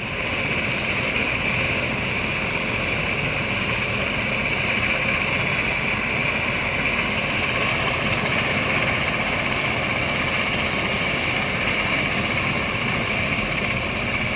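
Medical helicopter on a rooftop helipad running steadily, its turbine whine and rotor noise held at a constant level while the patient is loaded aboard.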